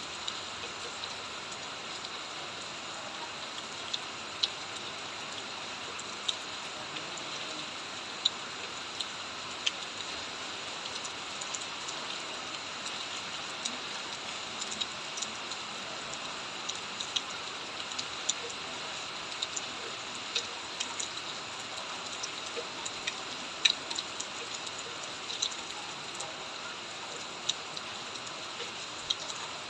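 Steady rain falling, a constant hiss with sharp, irregular ticks of single drops landing close by.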